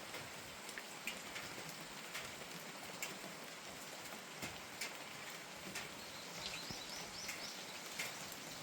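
Steady rain with scattered sharper drips. About six seconds in, a bird gives a quick run of about six high notes over a little more than a second.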